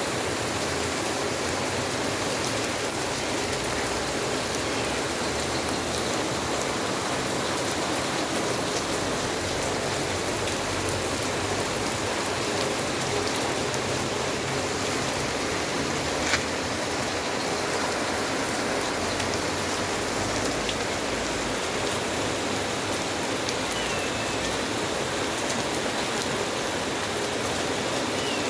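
Steady rain falling, with one sharp click a little past the middle.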